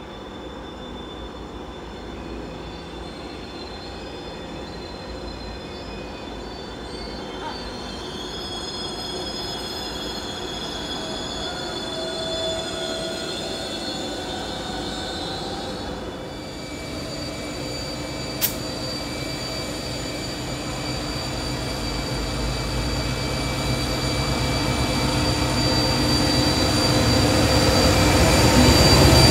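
Pacific National diesel freight train rounding a curve: several steady high-pitched wheel squeals, with the locomotive's low engine rumble growing louder as it draws close near the end. One sharp click about eighteen seconds in.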